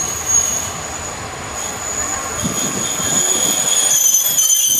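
Kazekko, a trolley-style diesel railcar, pulling slowly into a station platform with a high-pitched squeal from its wheels and brakes over a low rumble. A second squealing tone joins in partway through.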